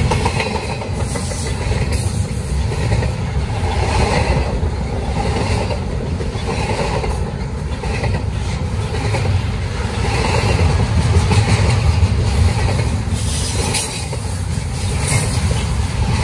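Double-stack intermodal freight train's well cars rolling past close by: the steady noise of steel wheels on rail, swelling and easing every few seconds.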